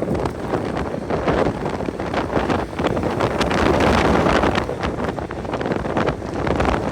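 Strong wind buffeting the microphone in uneven gusts, a rough rushing noise with no clear tone.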